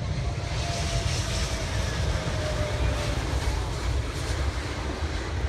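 Engines of large aircraft: a steady deep rumble with a hiss above it and a faint whine that slowly falls in pitch.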